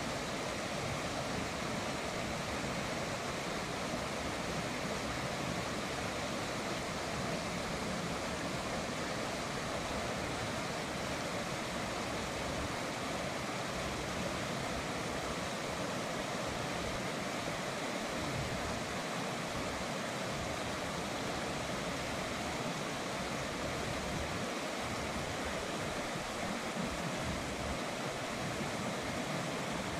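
River water running, a steady rushing noise with no breaks.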